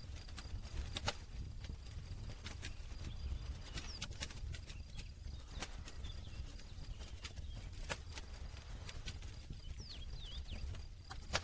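Wood campfire crackling: irregular sharp pops and snaps over a low, steady rumble, with the loudest pops about a second in and at the very end.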